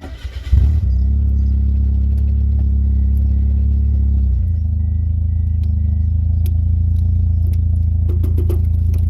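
An engine catches and then runs steadily at a low, even pitch, settling slightly lower about four and a half seconds in.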